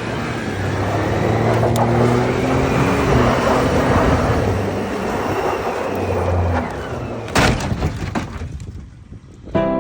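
A vehicle engine running under power with a steady hum and a rushing noise, then one sharp loud bang about seven seconds in, typical of a crash impact in a failed drift. Music starts right at the end.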